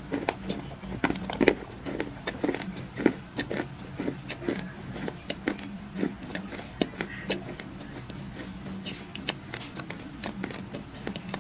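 Dry clay crunching and crumbling in a quick, irregular run of sharp cracks and crackles, busiest in the first few seconds and thinning out later, over a faint steady hum.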